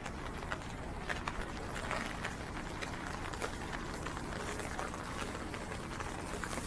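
Rain drops tapping irregularly on an umbrella, over a steady low rumble of wind on the microphone and footsteps on wet pavement.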